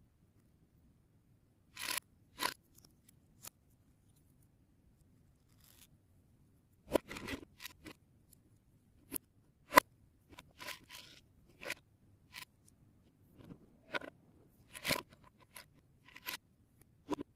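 Plastic Lego Technic parts being handled: scattered sharp clicks and short rattling rustles of pieces, with quiet gaps between them, the sharpest click a little under halfway through.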